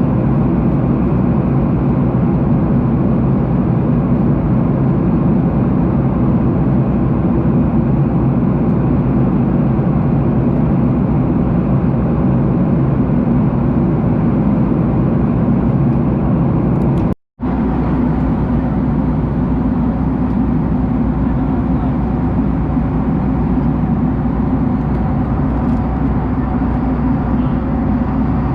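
Airliner cabin noise: the steady drone of jet engines and rushing air, heard from inside the cabin. It briefly cuts out to silence a little past halfway through.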